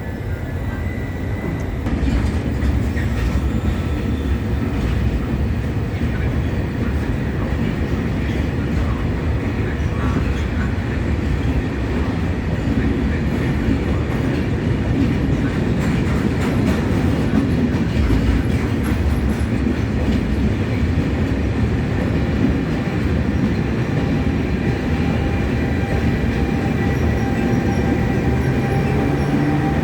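Regional train with an E.464 electric locomotive running along the track: a steady rumble of wheels on rail with some clickety-clack, getting louder about two seconds in. Near the end a low tone rises in pitch.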